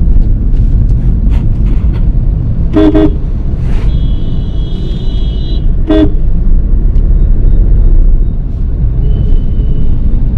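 Busy road traffic: a steady low rumble of engines and tyres, with vehicle horns honking. There are two short honks about three seconds apart, and a higher-pitched horn held for about a second and a half between them.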